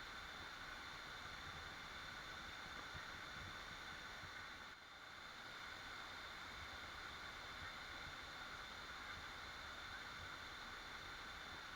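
Waterfall, water rushing steadily, with a brief dip in level about halfway through.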